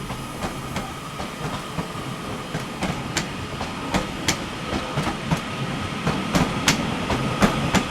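Class 331 electric multiple unit pulling out, its wheels clicking over rail joints and points more and more often as it gathers speed, over a steady hum with a thin whine.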